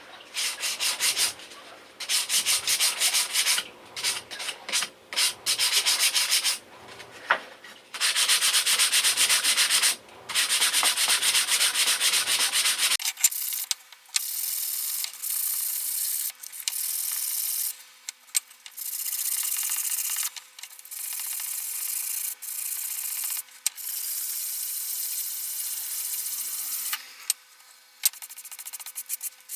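Hand sanding with sandpaper: rubbing strokes in runs of one to a few seconds, starting and stopping repeatedly. A low background hum drops out about 13 seconds in.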